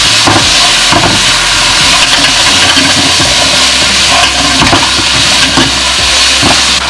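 Tofu and sliced zucchini sizzling in a hot nonstick pan while a spatula stirs them, a steady hiss broken by repeated short scrapes of the spatula against the pan.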